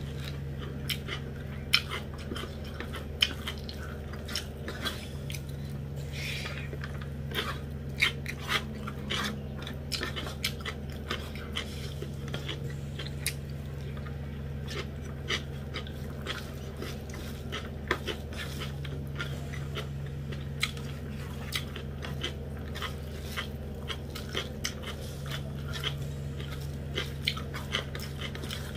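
Close-miked chewing and mouth smacking of someone eating rice and dried-buffalo-meat curry by hand, heard as many short irregular clicks. A steady low hum runs underneath.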